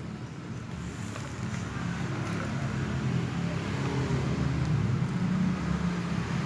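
A motor vehicle's engine running steadily, with a low hum that grows louder about four seconds in and eases toward the end.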